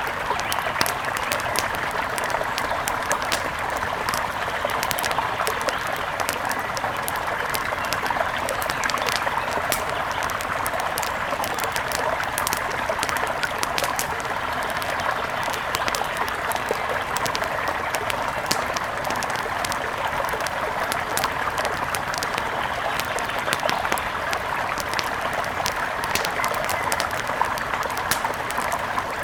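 Wood fire crackling with frequent small sharp pops over the steady rush of a flowing river.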